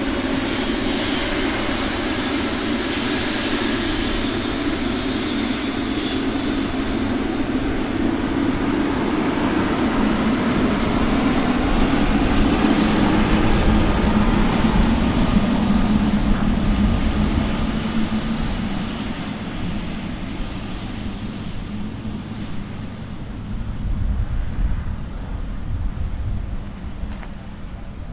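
Jet airliner engines heard as the aircraft passes: a steady rushing noise that grows louder to a peak about halfway through and then fades away.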